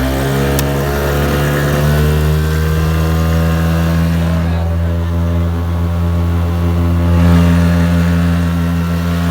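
Gasoline outboard motor driving a loaded jon boat, running at a steady pitch under way; it swells slightly louder about seven seconds in.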